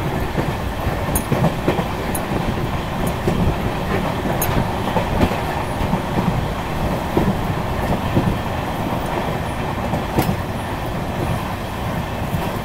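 Indian Railways passenger train running, a steady rumble of wheels on the track with a few sharp clacks scattered through it.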